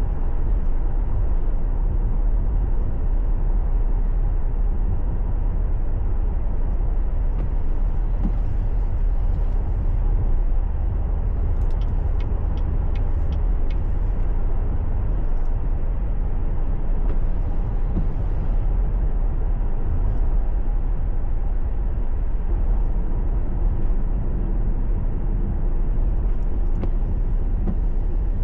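Steady low rumble of a car driving, engine and tyre noise on the road, with a short run of faint ticks about twelve seconds in.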